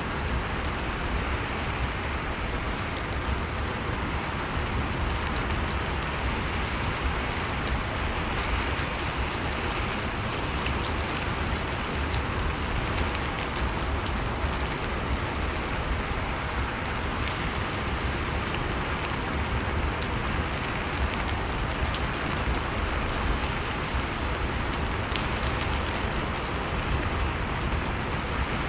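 Steady rain falling, a constant patter of drops on a surface with scattered faint ticks of individual drops.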